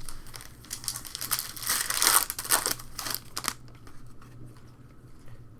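Foil trading-card pack wrapper crinkling and tearing as it is ripped open, loudest about two seconds in, then settling down.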